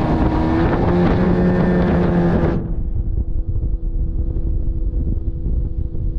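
Motorboat engine running under way, with wind rushing over the microphone. About two and a half seconds in, the high rushing noise cuts off suddenly, leaving a steadier, duller engine drone.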